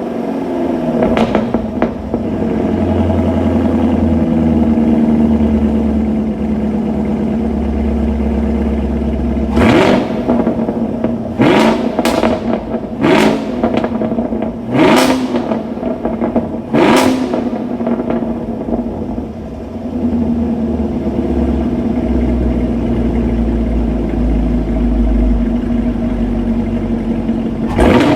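Chevrolet Camaro SS 1LE's 6.2-litre LT1 V8 idling cold through an NPP exhaust with the secondary cats deleted. It is given sharp throttle blips: one early, a quick series of about six between roughly ten and seventeen seconds in, and another near the end, each rising and falling fast back to idle.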